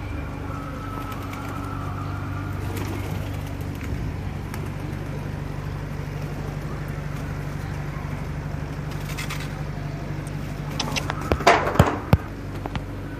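An engine running steadily, a low even hum. Near the end comes a short louder burst of clattering.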